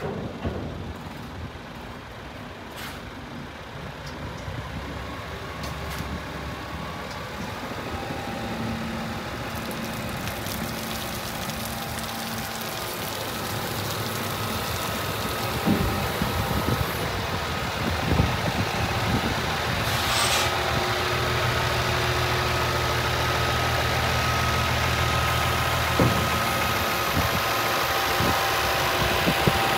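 Scania G500 tipper truck's diesel engine running at idle, growing steadily louder, with a short hiss of compressed air about two-thirds of the way through and a few sharp knocks.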